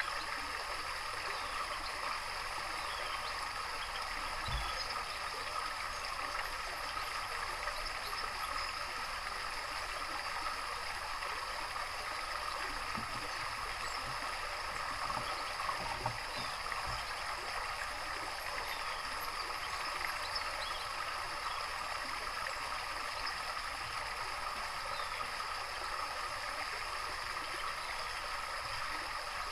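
Steady running water trickling and gurgling, with faint scattered chirps from small songbirds over it. A couple of soft low thumps stand out, about four seconds in and around the middle.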